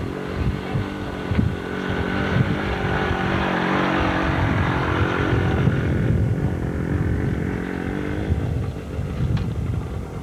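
Dirt bike engine running, growing louder toward the middle and fading away after about eight seconds.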